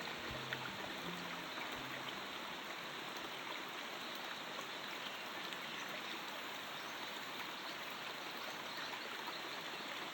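Steady running-water sound of a stream, a nature-sound ambience on a relaxation soundtrack, with no music in it.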